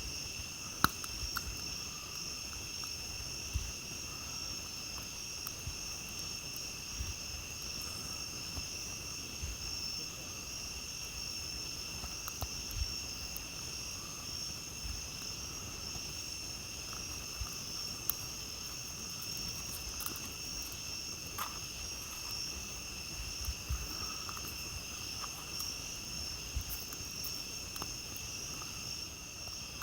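Steady, unbroken high-pitched chorus of night insects, with scattered sharp pops and crackles from a campfire, the loudest about a second in.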